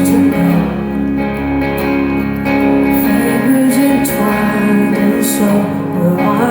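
Live concert music: a female singer holding long sung notes over guitar accompaniment.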